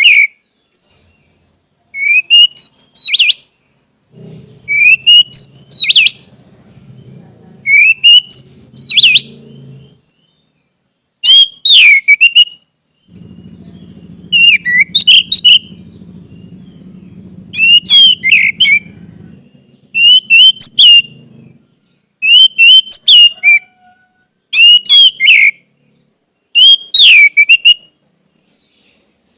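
Orange-headed thrush (anis merah) singing in short, loud phrases of quick gliding whistled notes, repeated every second or two.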